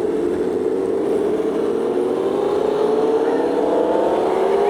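Aprilia Tuono V4 motorcycle's V4 engine pulling under steady acceleration, its note rising gradually in pitch, over rushing wind noise.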